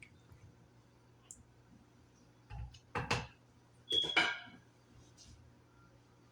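Kitchen utensils and containers being handled: two short bursts of clatter, the second with a brief ringing clink, over a steady low hum.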